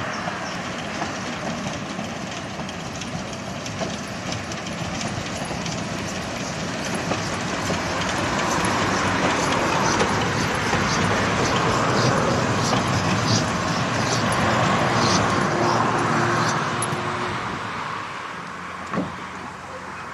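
A train running along the track, its noise building to a peak over the middle of the stretch and fading toward the end, with fine clicking throughout and a single knock near the end.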